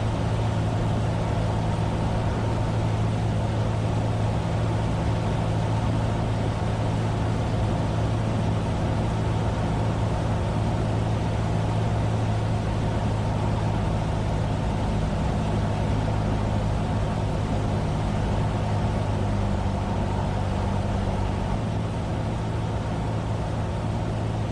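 Cessna 172F's Continental O-300 six-cylinder engine and propeller running steadily at low taxi power after landing, heard as a constant drone inside the cabin. It eases slightly in level near the end.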